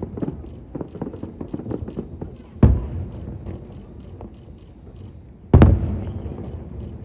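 Aerial fireworks bursting: two loud booms, a little under three seconds apart, each trailing off, with smaller crackling pops in between.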